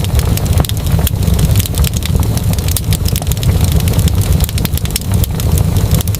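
Wood fire burning in a fireplace: a steady low rumble of flame under many small, sharp, irregular crackles and pops.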